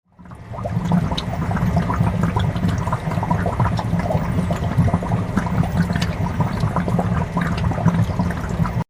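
Water rushing and splashing over a low rumble, dense with small crackles. It fades in over about the first second and cuts off suddenly near the end.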